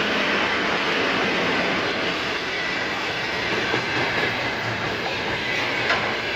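Freight train rolling past on the rails: a steady loud rushing of wheels on track, with a couple of brief sharp clanks near the end.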